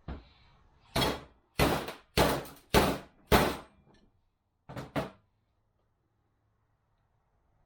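Hammer blows on metal: five hard, ringing strikes about half a second apart, then two lighter taps, while driving a stuck bushing out of a 42RE automatic transmission part.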